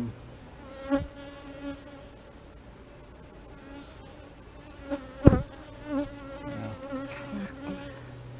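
Honey bees buzzing as a steady, wavering hum around an open hive frame. A sharp knock about five seconds in, with a smaller one about a second in.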